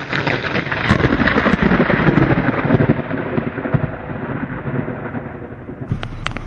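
Thunder rumbling and crackling over rain, loudest in the first three seconds and then dying away. About six seconds in, the sound cuts to a different recording with a few sharp ticks.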